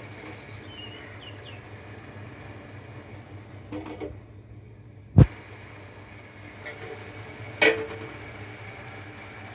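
Steady low hum of background ambience, with one sharp click about five seconds in and a shorter knock about two and a half seconds later.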